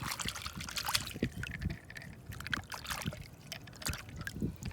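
Shallow water splashing and trickling in small, irregular splashes.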